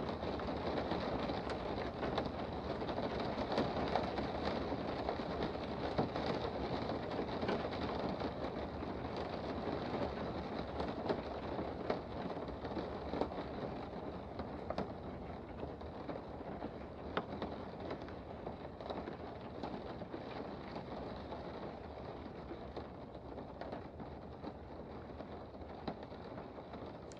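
Rain heard from indoors: a steady hiss of falling rain with many separate drops ticking on surfaces, slowly fading quieter.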